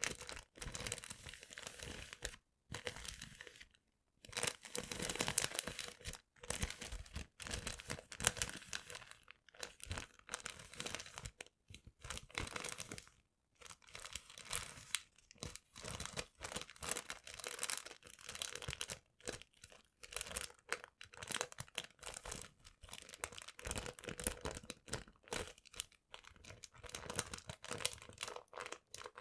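Paper being handled close to the microphone, crinkling and rustling in irregular bursts separated by short pauses.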